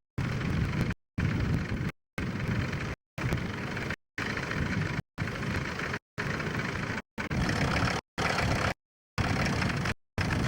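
Tractor engine running, its sound chopped by repeated dropouts to dead silence about once a second.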